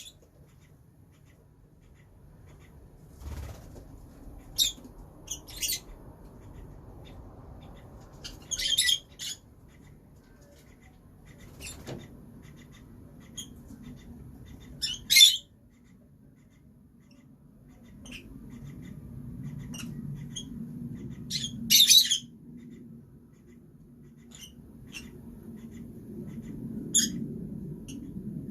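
Pet lovebirds giving short, shrill high-pitched chirps every few seconds, with a few louder squawky bursts among them, over low background noise.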